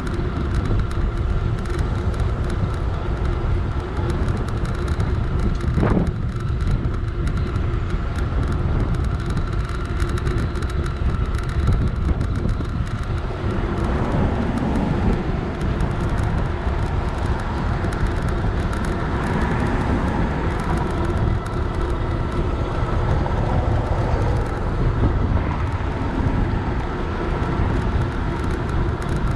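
Rushing wind and road noise from riding an electric bike, steady throughout, with one sharp knock about six seconds in.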